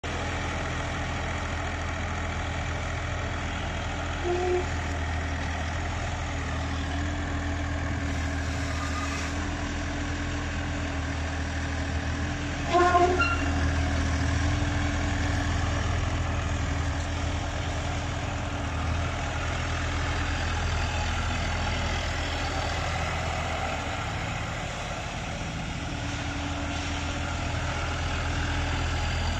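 HIXEN HX20 mini excavator's diesel engine running steadily with a low hum. A short high-pitched squeal is heard about four seconds in, and a louder one near the middle.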